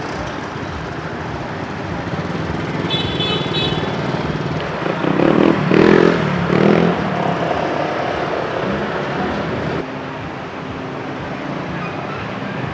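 Street traffic with motorbike engines running and passing. About five seconds in, one engine passes close and rises to the loudest point before falling away, and a brief high beep sounds a couple of seconds earlier.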